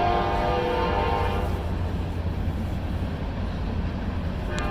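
Passing train on the nearby track: a chord of steady horn-like tones that fades out about a second and a half in, over a steady low rumble, with a short click near the end.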